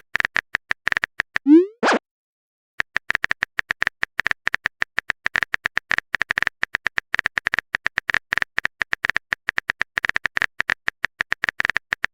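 Rapid electronic phone-keyboard typing clicks, each a short tick at the same pitch. About one and a half seconds in comes a rising swoop ending in a pop, a chat message-sent sound effect. After a pause of under a second the typing clicks start again and keep going.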